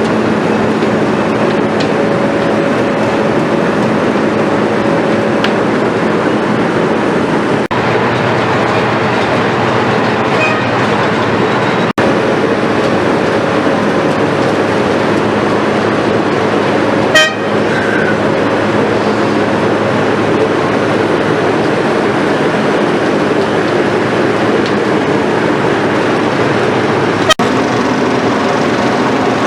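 Asphalt milling machine running under load, a loud continuous engine and cutting-drum noise with a steady hum. A short, sharp sound stands out about 17 seconds in.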